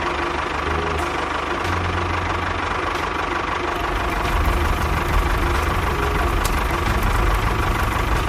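Small engine of a mini tractor running steadily, with a low rumble that gets heavier about halfway through.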